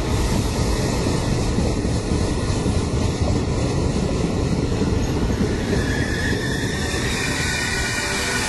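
A train running close by at the station, with a loud, steady rumble of wheels on rail. High-pitched wheel squeal comes in from about six seconds in.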